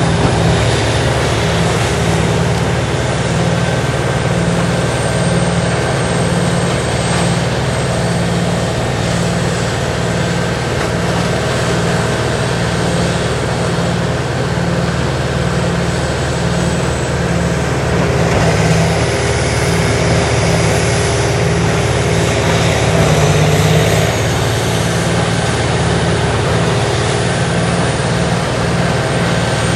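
Diesel-powered tracked horizontal grinder running steadily under load, grinding tree tops and branches, a continuous loud drone. It grows louder for several seconds about two-thirds of the way through.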